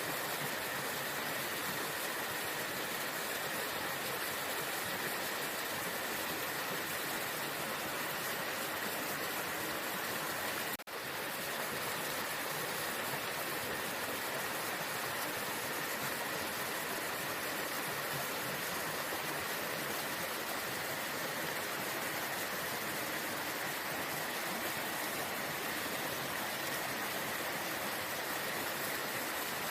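Waterfall: steady rushing of falling water, with a momentary drop-out about eleven seconds in.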